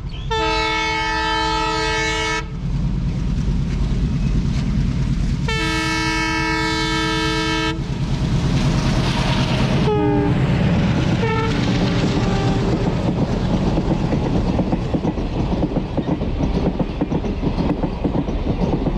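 Train horn sounding two long blasts about five seconds apart over the steady rumble and clatter of a train running on the track. Two short falling tones follow around ten and eleven seconds in.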